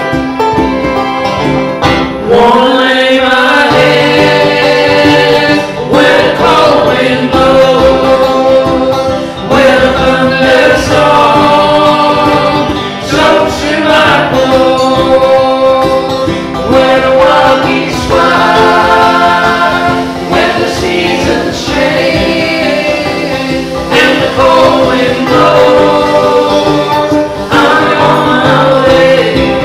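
Country or bluegrass-style song with singing over acoustic guitar and other string instruments.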